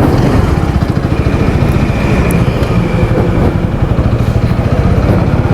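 Motorcycle engine idling with a rapid, even pulse. A faint thin high whine runs through the middle.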